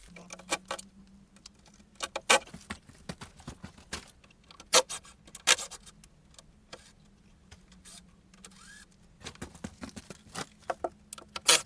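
Irregular sharp clinks and knocks of tools and timber as a temporary wooden arch former is taken down, loudest about two, five and eleven seconds in, over a faint steady low hum.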